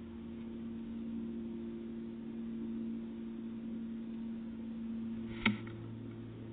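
Steady low electrical hum, broken by a single sharp click about five and a half seconds in, after which the hum drops to a lower pitch.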